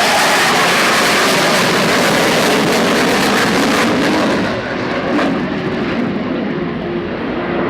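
Twin-engine CF-18 Hornet fighter jet flying past: loud jet noise that drops and loses its high hiss about four and a half seconds in as it moves away.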